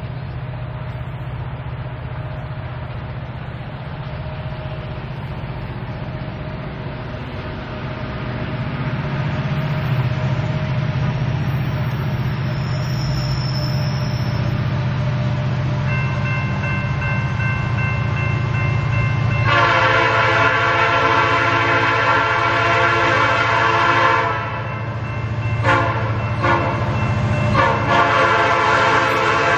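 Approaching diesel freight train, a low rumble that grows steadily louder. About two-thirds of the way in the locomotive's air horn sounds a chord of several notes: a long blast, two short toots, then another long blast.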